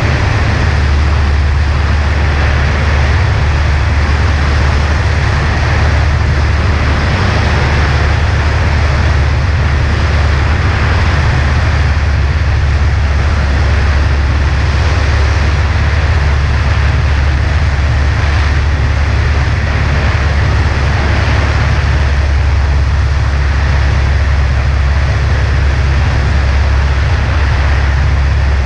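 Cessna 140A's engine and propeller droning steadily in flight, with a constant rush of air noise over it.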